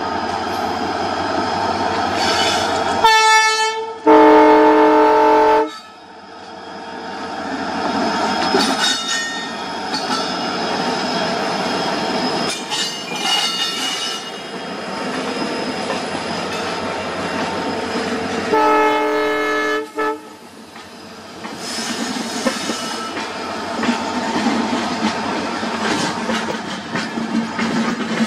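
WDP4 EMD diesel locomotive sounding its horn: a short blast about three seconds in, then a longer, louder one, and another blast about nineteen seconds in. In between, the express rolls past with a steady clickety-clack and high-pitched wheel squeal from the curve.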